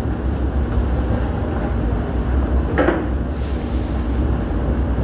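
Hong Kong Light Rail Phase III light rail cars running, a steady low rumble, with a single sharp knock about three seconds in.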